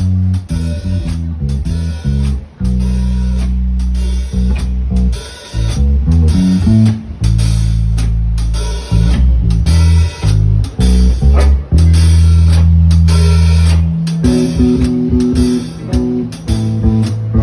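Blues band playing an instrumental passage: guitar and bass guitar over a drum kit, with steady drum hits and long held bass notes.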